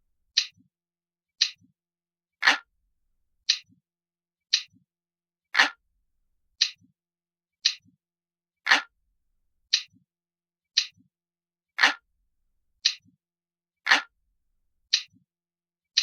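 Analog clock ticking steadily, about one tick a second, with some ticks lower and fuller than the others.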